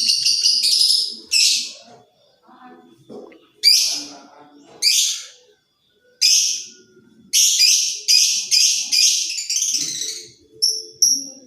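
Lovebird giving loud, shrill, harsh calls: a fast chatter at the start, then single screeches about a second apart, a quick run of calls, and short clipped chirps near the end.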